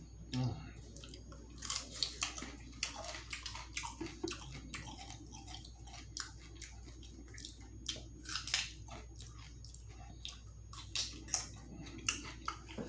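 A person chewing and biting food close to the microphone, with many irregular wet mouth clicks.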